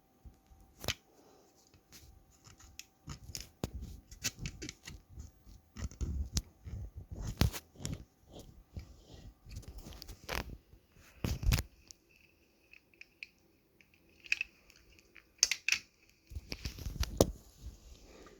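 Irregular clicks, scrapes and rustles of a small toy car and its packaging being handled, with a faint short whine about fourteen seconds in.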